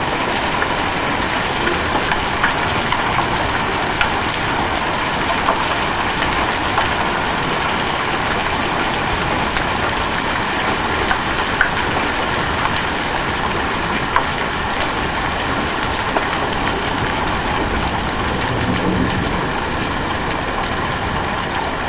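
Steady heavy hail, stones up to penny size, pelting down in a dense, even hiss, with scattered sharper clicks of single hailstones striking hard surfaces.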